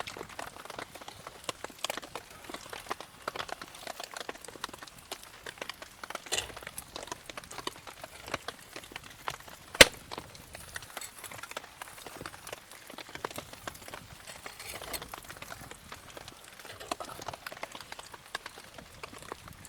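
Wood campfire crackling with many small irregular snaps, and one loud sharp pop about halfway through.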